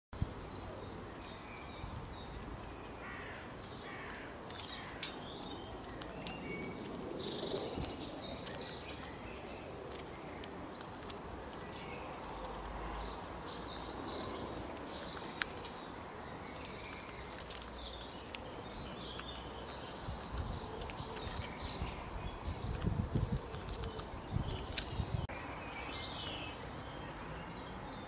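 Several songbirds chirping and singing over a steady outdoor background hiss. A few louder low rumbles come near the end.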